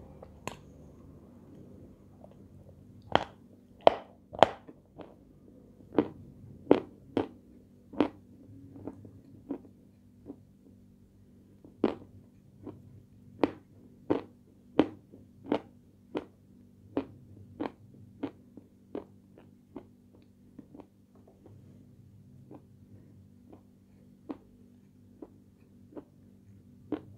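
Chewing a crunchy white sweet, with sharp separate crunches about once or twice a second. They are loudest a few seconds in and grow fainter toward the end, over a steady low hum.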